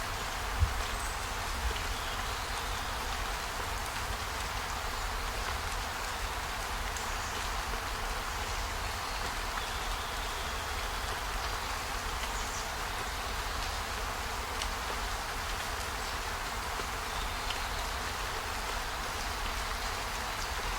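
Steady rain with a low rumble underneath, and a single sharp click about half a second in.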